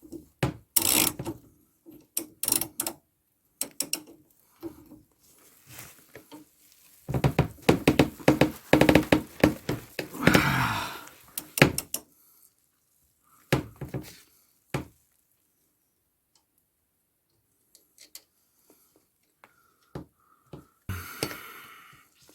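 Hand tools clanking and knocking on metal while working on a bolted rear suspension mount: scattered sharp knocks, then a dense stretch of rapid clattering about seven seconds in that lasts several seconds, then a few sparse clicks and a short scrape near the end.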